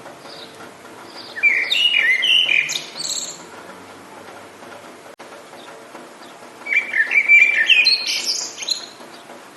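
A songbird singing two rich, warbling song phrases of about two seconds each, one near the start and one about five seconds later, over a steady background hiss.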